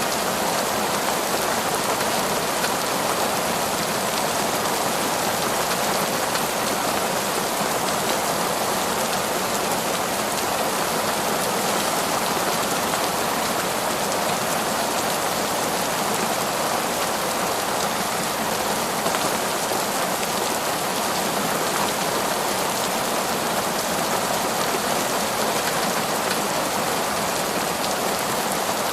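Heavy, torrential rain falling steadily, a constant dense hiss of drops with no thunder or breaks.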